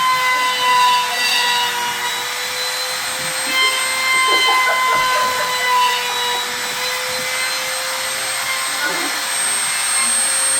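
An electric motor whining steadily at one pitch, with a constant rushing hiss.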